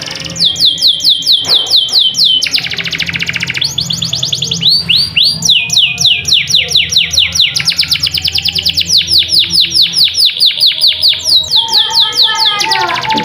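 Domestic canary singing a long, unbroken song of rapid trills: runs of quick, evenly repeated whistled notes, each falling in pitch, switching to a new phrase every second or two. A steady low hum lies underneath.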